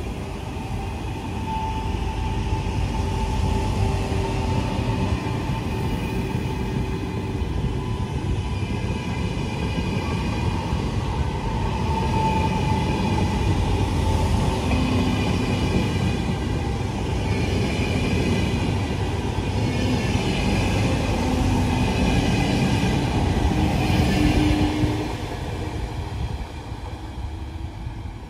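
Electric train running through the station: a steady rumble of wheels on the rails with a motor whine that shifts pitch in steps, building over the first few seconds and dropping off about 25 seconds in.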